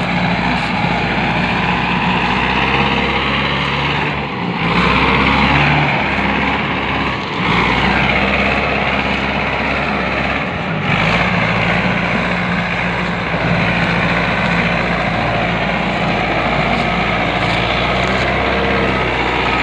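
Mahindra 585 tractor's diesel engine running hard, its note dipping and picking up again a few times as the load or throttle changes.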